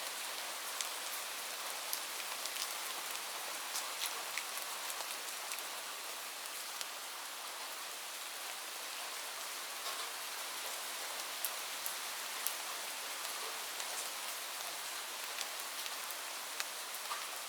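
Light rain falling steadily, a soft even hiss with scattered sharp ticks of individual drops landing.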